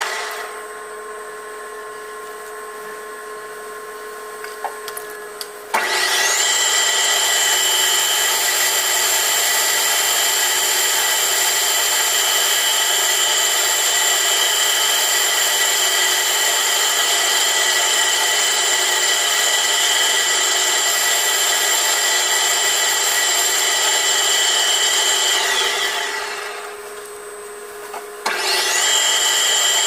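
A metalworking machine starts about six seconds in with a quick rising whine, then runs loud and steady, a high whine over a rasping noise. It winds down near the end and starts up again just before the end. Before it starts there is a quieter steady hum with a few light clicks.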